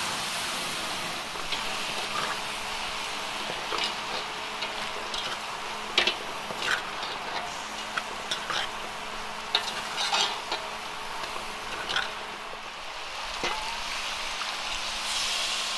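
Chopped potatoes and eggplant frying with a steady sizzle in curry paste in an aluminium pot, stirred with a metal spoon that clinks and scrapes against the pot every second or two. Near the end, water is poured into the pot.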